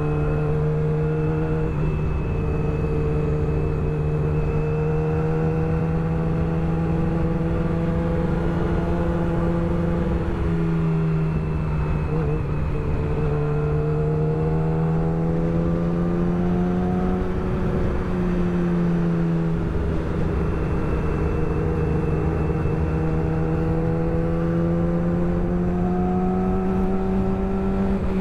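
Yamaha R6 sport bike's inline-four engine running steadily on the road, its pitch slowly rising and falling with the throttle, with a couple of brief dips midway.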